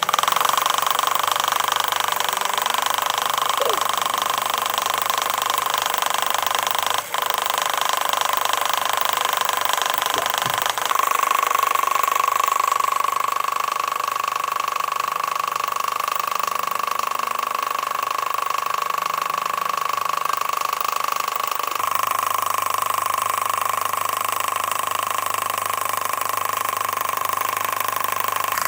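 A power tool or workshop machine running steadily: a loud hiss with a strong, steady whine, shifting slightly at a few points where the footage cuts.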